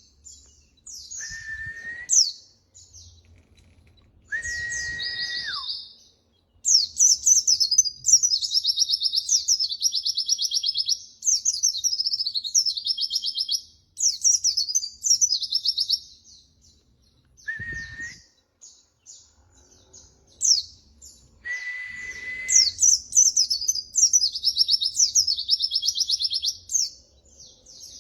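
White-eye (pleci) song: bouts of fast, high, chattering trills, broken by short pauses. Several long, level whistled notes come in between, each sliding down at the end.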